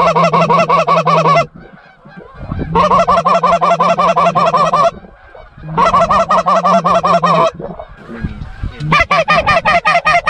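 Goose call blown in quick runs of rapid, evenly spaced honks imitating Canada geese: four runs of about one to three seconds each, every run starting and stopping abruptly, with a steady low hum beneath the notes.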